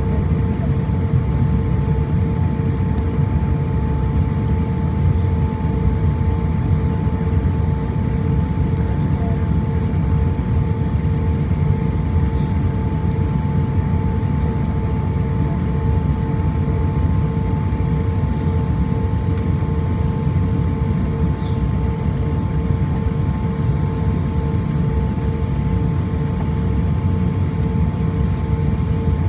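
Steady cabin noise inside an Airbus A350-1000 after landing: a constant low rumble with a steady whine over it.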